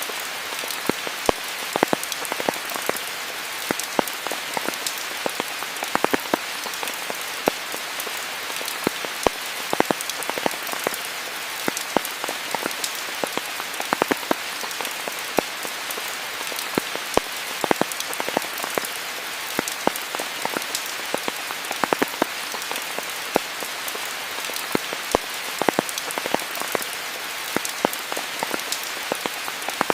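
Steady rain falling, a constant hiss with frequent sharp drips and drop impacts close by.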